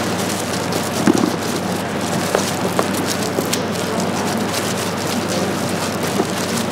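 Steady sizzling and crackling of food frying in hot oil, with a few sharper pops.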